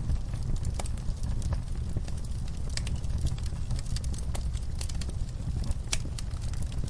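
Logs burning in a fireplace: a steady low rumble of flame with irregular sharp crackles and pops, one of the loudest about six seconds in.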